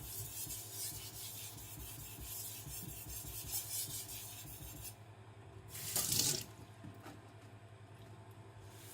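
SRS-15 powder-steel gyuto blade rasping in repeated strokes across a wet Naniwa Professional 1000 whetstone while a burr is raised along the edge near the tip. The strokes stop about five seconds in, and a brief, louder swish of noise follows about a second later.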